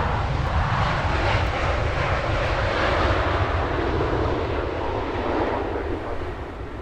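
Jet airliner passing by, the rushing noise of its engines swelling and then slowly fading away.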